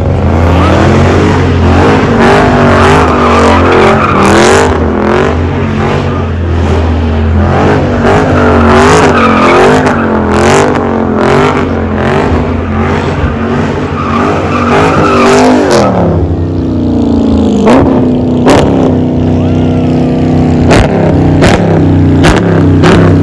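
V8 muscle car doing donuts: the engine revs rapidly up and down against the rev limit, with tyre squeal, for about sixteen seconds, then holds a steadier note. Sharp cracks come through at intervals, several of them near the end.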